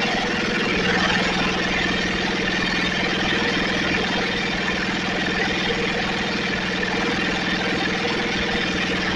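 Snapper riding mower's small gasoline engine running at a steady speed.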